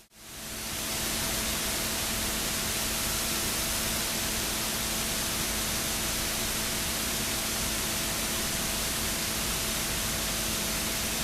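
Steady, even rushing noise with a faint constant hum, as of a train running, heard from inside the carriage. It fades in from a brief dip at the start, then holds level.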